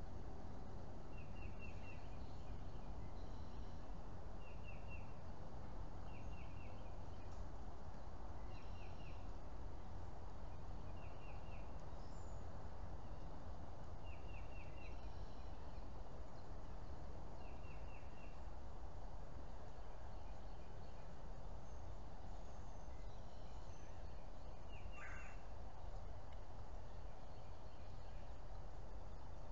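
A small bird calling again and again: short groups of three or four quick high chirps every two to three seconds, over a steady low background rumble.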